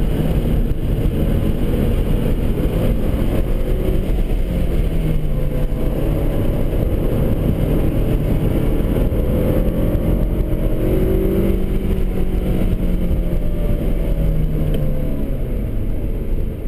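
Cadillac ATS coupe's 3.6-litre V6 engine pulling hard at track speed, heard from inside the cabin, its pitch rising and falling through the middle over a dense low rumble.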